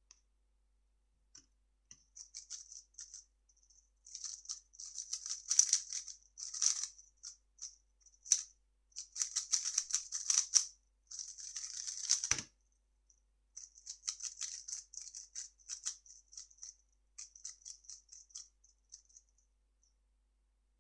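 A 3x3 speedcube being turned fast by hand: bursts of quick plastic clicking and rattling with short pauses, and a dull thump about twelve seconds in.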